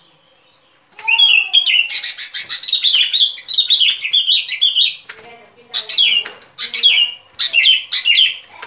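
Sooty-headed bulbul song, a lure call: after about a second of quiet, a fast run of bubbly chattering notes, then a short pause and a series of separate falling whistled phrases.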